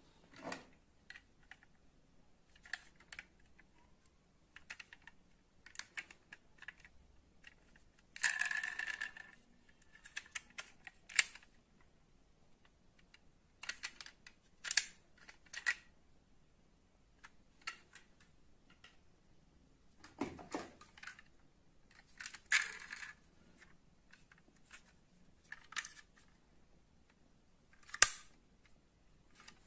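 Scattered small clicks and taps of die-cast metal model cars being handled, with a brief scraping rush about eight seconds in and a sharp click near the end.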